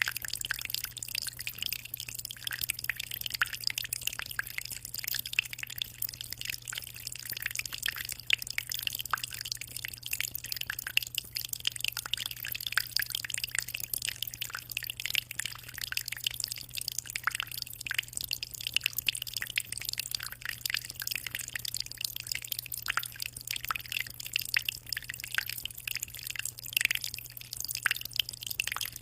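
Aquarium water trickling and splashing without a break, a dense patter of small droplets, over a steady low hum.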